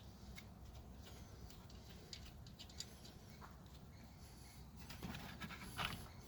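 Faint, scattered clicks and scratchy ticks of small metal nuts and parts being handled while ignition coil packs are reinstalled, a little louder about five seconds in.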